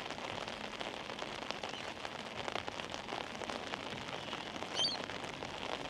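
Steady monsoon rain falling, an even hiss scattered with many small drop ticks. A brief high chirp sounds about five seconds in.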